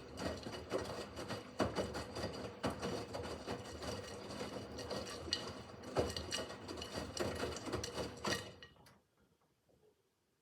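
Miele W5801 WPS washing machine running, with a steady motor hum under irregular clattering and knocking from the turning drum. The sound cuts off abruptly about nine seconds in.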